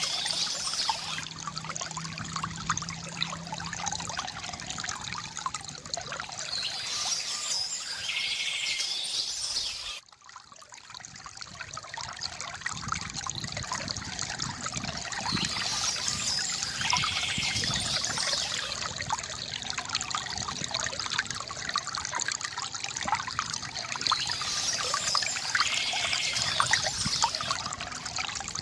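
Water trickling and splashing steadily from a bamboo fountain, with short bird calls every several seconds. The water sound cuts off abruptly about ten seconds in and fades back up over a few seconds.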